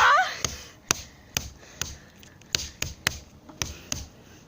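A rhythmic beat of sharp hand-made taps, a little over two a second, with the last sung note fading out at the start.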